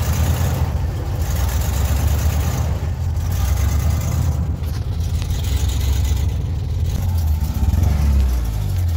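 An old car's carbureted engine idling steadily, just restarted and running fine, with a brief rise in revs about eight seconds in.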